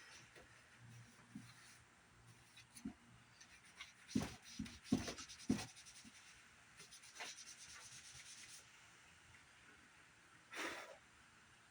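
A CRT monitor being wiped and rubbed clean by hand with a disinfectant wipe, with a few sharp knocks from handling it about four to five seconds in and a short swish near the end.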